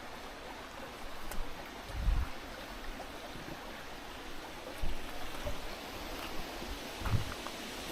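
Mountain stream flowing, a steady rush of water, with a few dull low thumps about two, five and seven seconds in.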